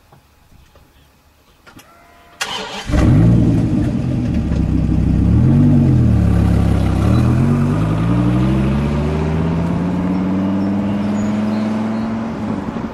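A Dodge Viper's V10 is cranked and catches about two and a half seconds in. It is revved twice, then its revs climb steadily as it pulls away.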